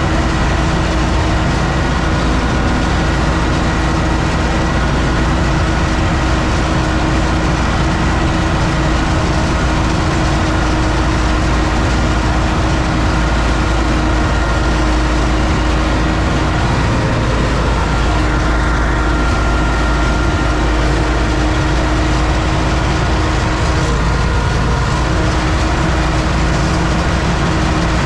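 UTB Universal 650 tractor's four-cylinder diesel engine running steadily under load while it pulls a CF7 cultivator through a corn field.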